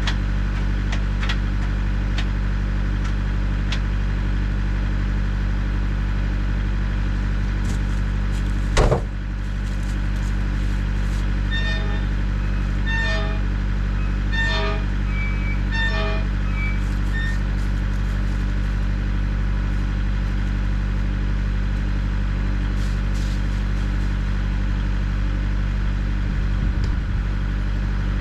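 Tractor engine idling steadily. A single sharp knock comes about nine seconds in, and a run of short, high chirps follows a few seconds later.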